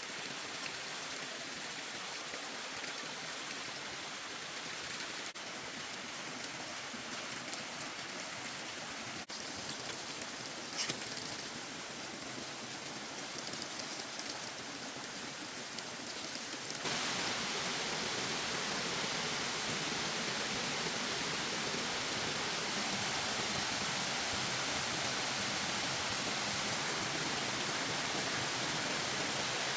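Steady hiss of rain, with a brief sharp sound about 11 seconds in; about 17 seconds in it jumps suddenly to a louder, fuller hiss.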